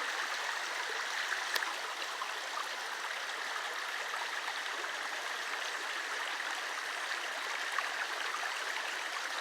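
The La Mina river, a rainforest mountain stream, rushing steadily over rocks.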